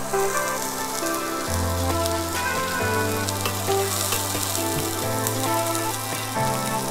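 Frying sizzle, a steady crackling hiss of food in a hot pan, under background music of slow held notes that change every second or so.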